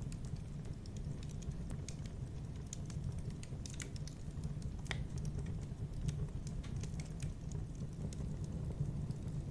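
Wood fire crackling in a fireplace: irregular small pops and snaps over a steady low rumble of the flames, with one sharper pop about five seconds in.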